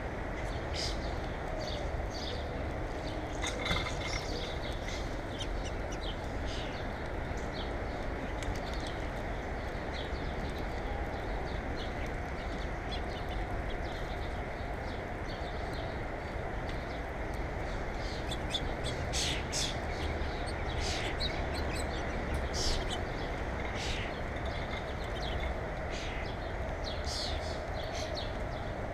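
Small birds chirping in short, scattered calls over a steady rushing background noise.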